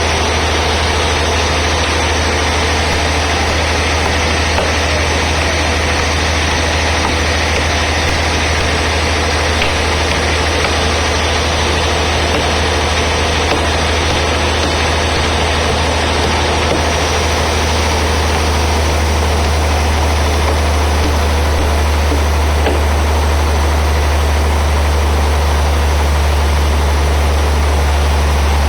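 Sawmill band saw running steadily through a large trembesi (rain tree) log: a strong low machine hum under a continuous hiss, without a break.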